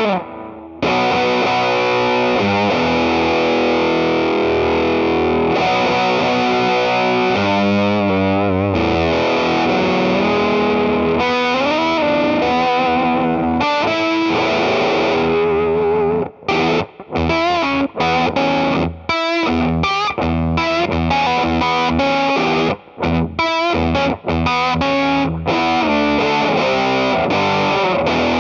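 Electric guitar played through an EarthQuaker Devices Sound Shank germanium fuzz pedal, a heavily distorted tone with sustained notes and bends. From about 16 seconds in it switches to short, choppy stabs separated by sudden stops.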